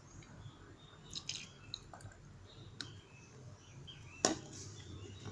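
Faint wet squishing and sticky clicks of glue slime being mixed as boric acid water is added, with one sharper click about four seconds in.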